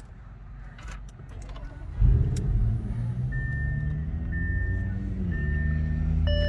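A 2016 Audi S6's 4.0-litre twin-turbo V8 starting about two seconds in, its revs flaring on start and then falling back toward a steady idle. Over it a seatbelt warning chime begins beeping, repeating on and off.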